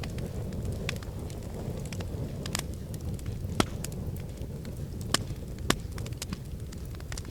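Wood fire crackling in a fireplace: a steady low rumble of flames with scattered sharp snaps and pops, three louder pops in the second half.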